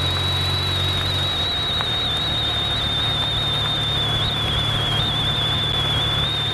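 Motorcycle running at road speed: steady wind rush over the microphone with a constant high-pitched whistle and the engine's low drone underneath.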